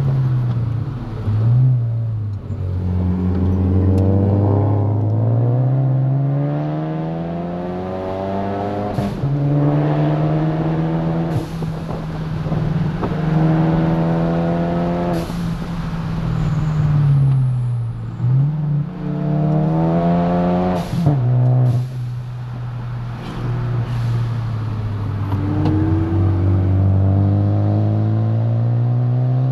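Car engine heard from inside the cabin, rising and falling in pitch over and over as the car speeds up and slows down, with several sudden jumps in pitch.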